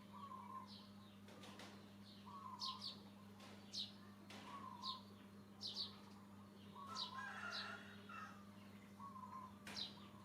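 Faint bird calls: short, high, falling chirps about once a second, each paired with a lower warble, and a busier burst of calling about two-thirds of the way through. A steady low hum runs underneath.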